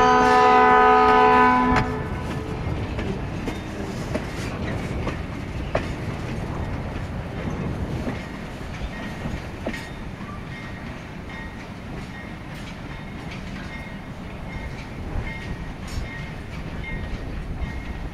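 Train horn sounding a loud multi-note chord that cuts off about two seconds in. It is followed by the wheels of the passing railroad cars rumbling and clicking over the rails, growing fainter as the train rolls away.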